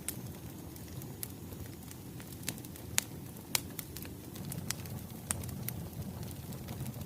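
Wood fire burning: a steady low rumble with irregular sharp crackles and pops. The loudest pops come about three seconds in and again half a second later.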